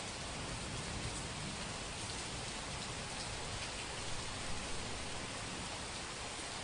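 Heavy rain falling steadily, an even hiss with a few louder drop spatters about four to five seconds in.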